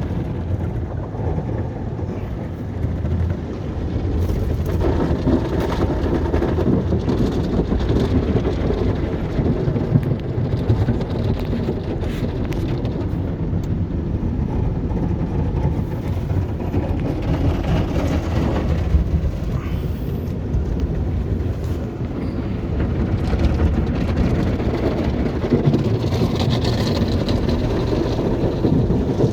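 Automated conveyor car wash working over a car, heard from inside the cabin: a steady, loud, low-heavy noise of water jets and wash machinery against the body.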